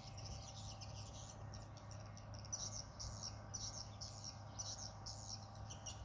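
Birds chirping in the open: a short high note repeated about twice a second, louder from about halfway in, over a faint steady low hum.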